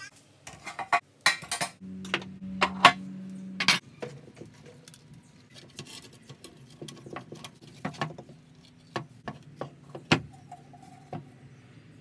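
Irregular clinks, knocks and clatters of metal coffee-machine parts and a wooden frame being handled and fitted together, with a steady low hum for about two seconds near the start.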